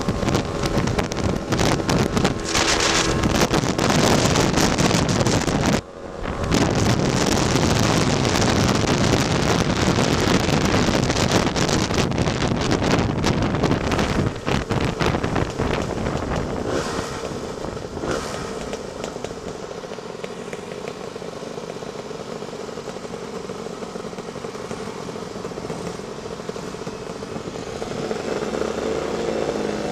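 Tuned Lambretta scooter's two-stroke engine running at road speed under heavy wind noise on the microphone, with a brief dip in sound about six seconds in. About halfway through it becomes quieter and steadier, and the engine note rises near the end.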